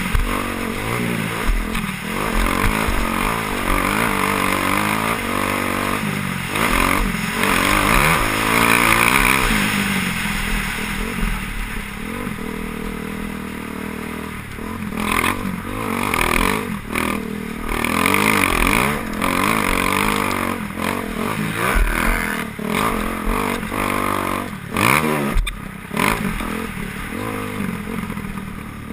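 Several motocross bikes racing, their engines revving up and dropping away in overlapping rising and falling whines. A few sharp knocks cut across the sound around the middle and near the end.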